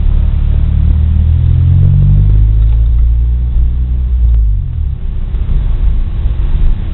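A car driving with a heavy low road rumble and engine note. The engine pitch falls about two seconds in, dips again around four and a half seconds, then picks back up as it pulls away.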